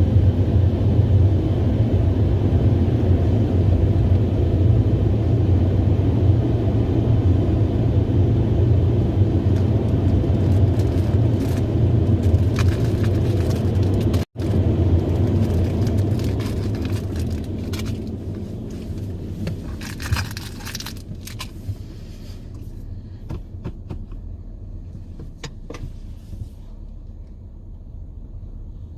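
Automatic car wash machine running with a steady, loud low rumble that breaks off for an instant about halfway, then fades gradually over the second half. Scattered clicks and knocks sound through the later part.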